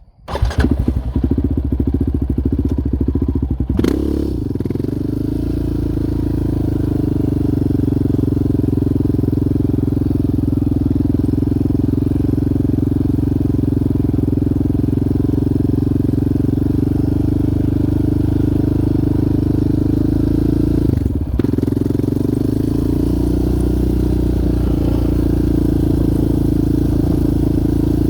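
Yamaha Raptor 700R quad's single-cylinder four-stroke engine running steadily as the quad is ridden, cutting in suddenly at the start and dipping briefly about two-thirds of the way through.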